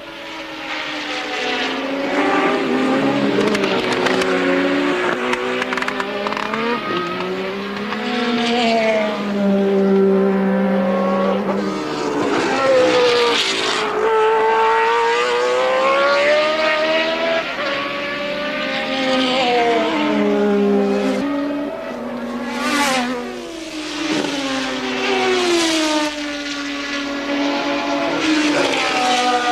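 Several 1983 Formula One cars racing, their engines screaming at high revs. Pitch climbs through the gears and drops on braking, and two or more cars are heard at once. Cars sweep past in sharp swells a little past the two-thirds mark.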